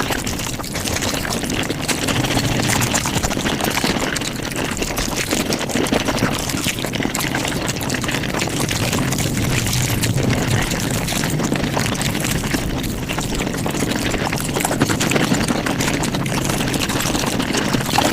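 Mukbang eating sounds sped up five times, the chewing and mouth sounds blurring into a dense, steady crackle.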